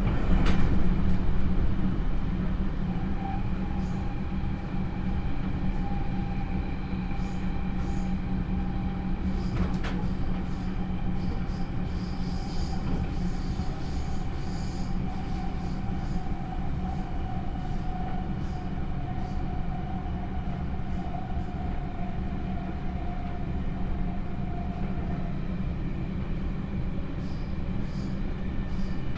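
Running sound of the JR 311 series electric multiple unit, motor car KuMoHa 311-2, with field-added excitation control: a steady rumble of wheels and running gear on the rails. A steady whine sinks slightly and fades out near the end, and sharp clicks sound just after the start and again about ten seconds in.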